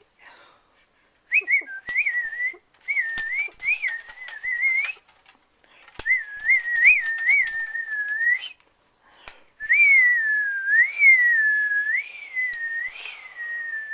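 A person whistling, a single clear tone wavering up and down in four phrases with short breaks between them.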